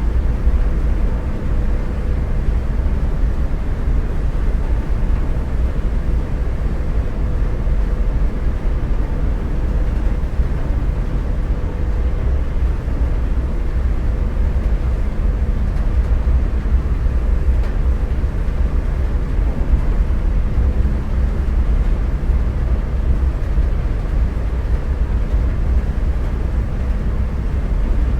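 Motorcycle riding along at steady speed: a continuous low rumble of engine and rushing air, with a faint steady whine above it.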